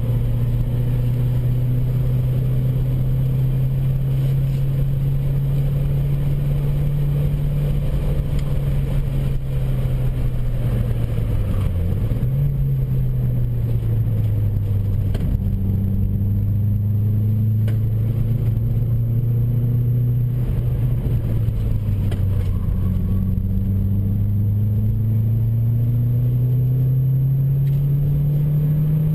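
Turbocharged Opel coupe's engine heard from inside the cabin while driving hard. Its drone holds steady, dips sharply and recovers about twelve seconds in, sags slowly, then climbs in pitch toward the end as the revs rise.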